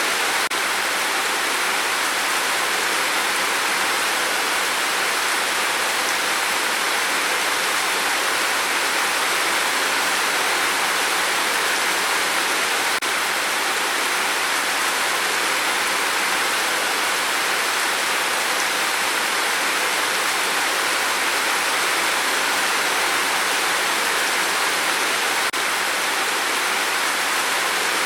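Steady rain falling on a tin roof, a dense even hiss.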